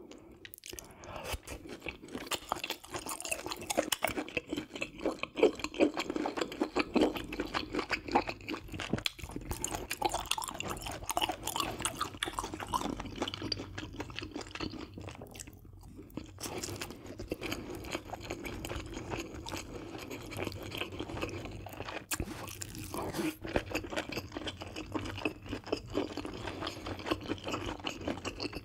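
Close-miked chewing of grilled pork belly and spicy stir-fried webfoot octopus with beef intestines: a steady run of wet mouth clicks and smacks.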